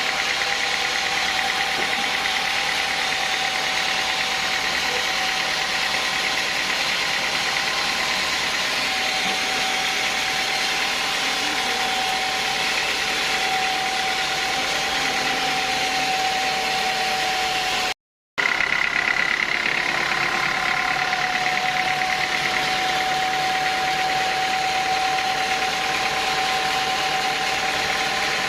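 Sawmill saw and its drive machinery running steadily, with an even high whine over the machine noise. The sound drops out for a split second about two-thirds of the way through.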